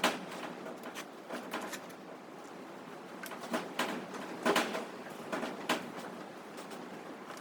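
A string of irregular knocks and clunks, about eight or nine, the loudest clustered a little past the middle.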